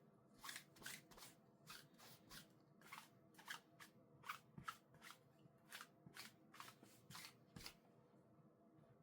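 Clean clothes being handled and folded: a quick run of short fabric swishes and rustles, two to three a second, that stops near the end.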